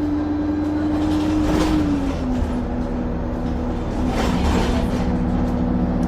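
Bus running, heard from on board: a steady low rumble with a steady whine that drops slightly in pitch about two seconds in.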